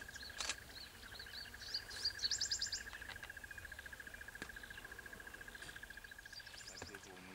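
Birds chirping in the bush, with a quick run of rapid high chirps about two seconds in, over a steady, fast-pulsing high trill that fades near the end.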